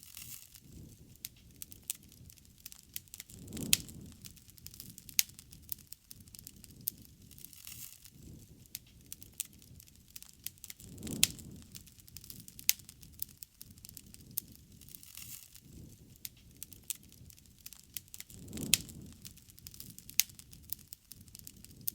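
Wood bonfire burning with frequent sharp crackles and pops, and a low whoosh of flame that swells three times, about every seven seconds.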